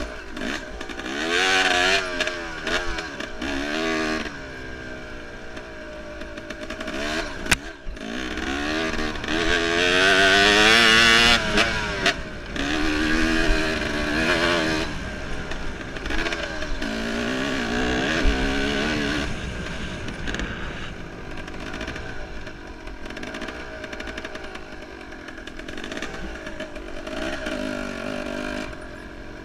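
Enduro motorcycle engine revving up and down repeatedly as it is ridden over a rough trail, with its pitch climbing and dropping every second or two and a sharp knock about seven and a half seconds in. It is loudest and highest around ten to twelve seconds in, with rattles and clatter throughout.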